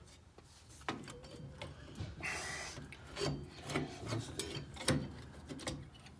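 Drum brake parts being worked loose by hand: irregular scraping and rubbing with scattered knocks and clicks of metal, including a longer scrape about two seconds in.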